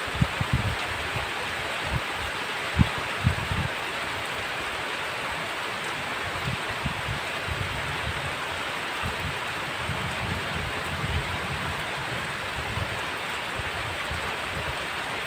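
Heavy rain falling steadily, an even hiss, with scattered dull low thuds of drops landing close by, most of them in the first few seconds.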